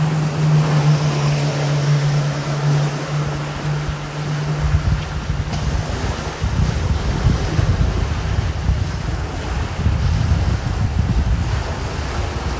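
Ocean surf with wind buffeting the microphone. A steady low hum stops about five seconds in, and from then on gusty wind rumble on the microphone is the loudest sound.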